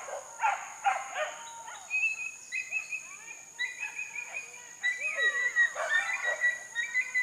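A pack of pig-hunting dogs yelping and baying, many high-pitched voices overlapping with sliding, wavering cries: the dogs giving voice on a wild boar chase.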